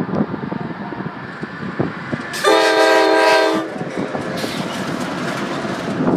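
CSX freight train passing with its wheels clattering over the rails. About two and a half seconds in, the locomotive's air horn sounds one chord blast lasting a little over a second.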